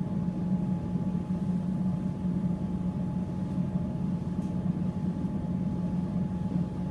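Steady running noise of an electric suburban train heard from inside the carriage: an even low hum with a thin, constant higher tone over it.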